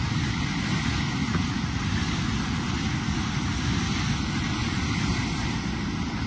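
Steady rushing roar of fast-moving floodwater, a constant noise without breaks.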